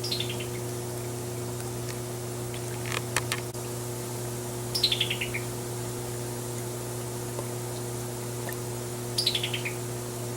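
Summer tanager giving its rattled call three times, each a quick run of about six clipped notes falling in pitch. A few sharp clicks come about three seconds in, over a steady low hum.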